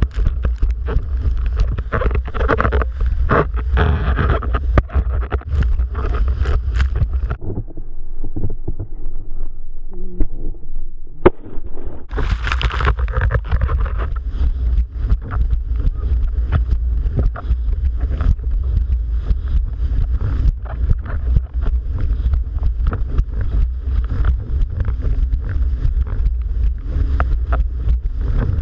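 Strong wind buffeting the microphone with a heavy rumble, over splashing water and frequent knocks. The rumble drops away for a few seconds around the middle, broken by one sharp click, then returns.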